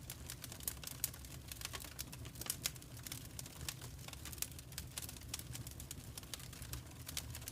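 Wood fire crackling: a dense run of irregular small snaps and ticks with a few louder pops, over a steady low rumble of the burning fire.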